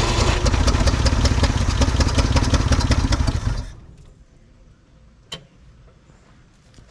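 A 1967 Ford F100's FE big-block V8 fires on its first start after more than 20 years, running on the fuel poured into the rebuilt carburetor's float bowl. It runs for about three and a half seconds, then dies abruptly. A single sharp click follows about a second and a half later.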